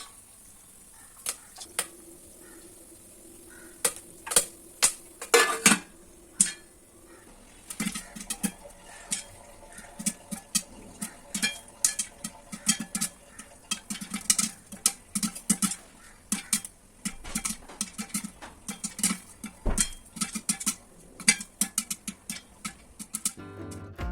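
Popcorn kernels popping in a hot pan. A few scattered pops at first, then a quick, irregular run of pops from about eight seconds in.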